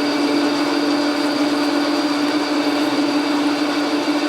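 Logan lathe running under power feed, taking a cut: a steady mechanical whir with a strong, even hum that does not change.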